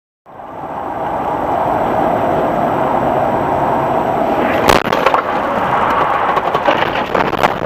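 Steady road and engine noise inside a moving car, picked up by a dashcam, with a sharp crash bang a little over halfway through and another bang near the end: a road collision.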